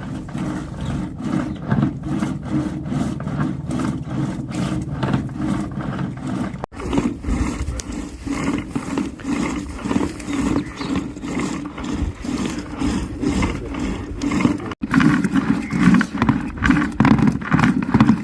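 Yogurt being churned by hand, a steady rhythmic sloshing and knocking of the churning stick, about two strokes a second.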